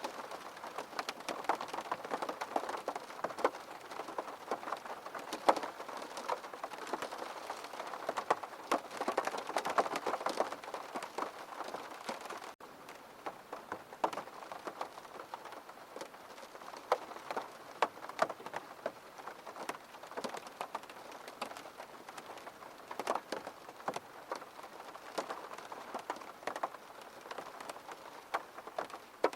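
Steady rain falling, with many individual drops pattering on a surface. About twelve seconds in the rain cuts abruptly to a quieter, sparser patter.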